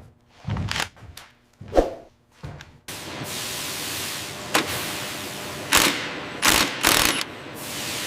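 Factory workshop sounds: a few separate knocks, then a steady hiss from about three seconds in, with sharp metal clanks over it, several close together near the end.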